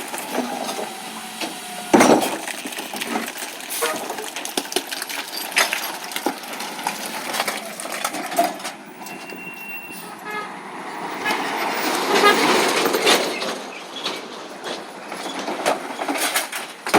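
Recycling truck running, with repeated clanks and knocks as recyclables are loaded, and a swell of mechanical noise about twelve seconds in.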